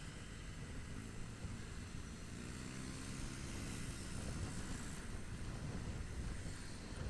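Motorcycle engine running steadily while riding, with steady road and wind noise.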